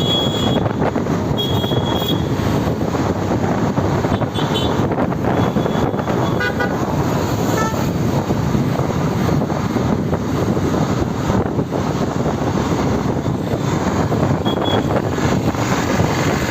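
Steady road and traffic noise from riding a motorcycle through city traffic, with vehicle horns honking several times: one ending about half a second in, another around two seconds in, and shorter toots later.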